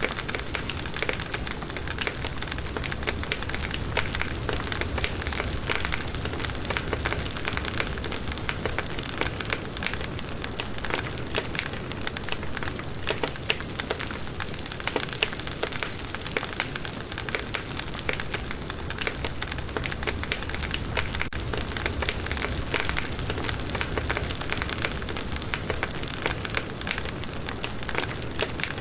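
Firewood burning in a campfire: dense, steady crackling and popping with a low rumble underneath.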